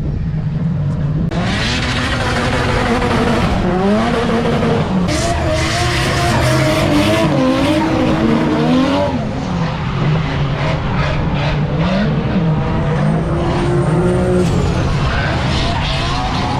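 Drift car engine revving hard, its pitch swinging up and down over and over, with a steady hiss of tyres sliding on a wet track that comes in about a second in.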